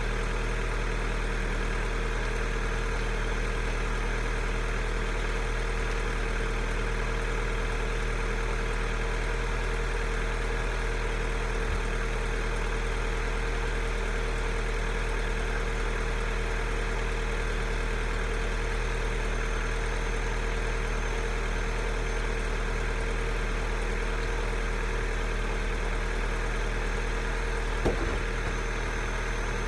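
Astra Mk4 Turbo engine idling steadily shortly after a cold start, with one brief knock near the end.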